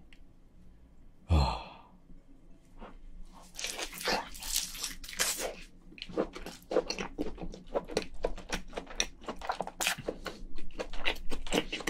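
Wet, smacking chewing of soft crayfish tail meat, a person eating with a full mouth. One bite-like sound comes about a second in, then irregular rapid chewing sounds from about three and a half seconds on.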